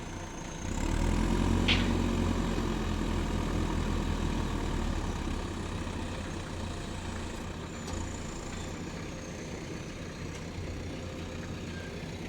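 Diesel engine of a JCB 4DX backhoe loader running; it grows louder about a second in as the machine is worked, then runs steadily and slowly eases off.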